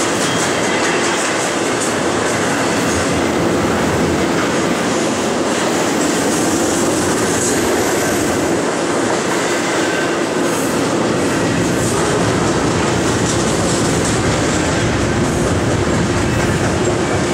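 Double-stack container train's well cars rolling past, steel wheels on rail making a steady loud rolling noise with fast clicking.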